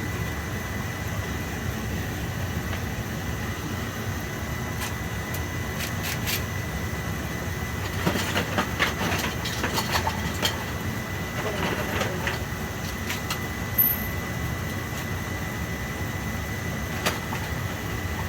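Oil-fired boiler's burner running with a steady low rumble and a thin steady high tone, firing normally after its repair. A spell of clicks and rattles comes about eight to twelve seconds in.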